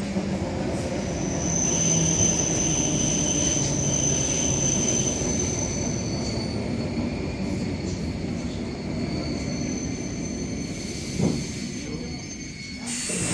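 Inside the car of an ER2R electric multiple unit running on the track: a steady rumble of wheels and running gear, with thin high-pitched squeals that come and go. There is a short knock about eleven seconds in, and a hiss starts near the end.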